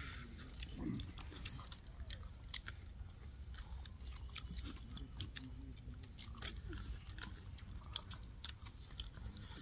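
A person eating chicken, chewing with irregular wet smacking clicks.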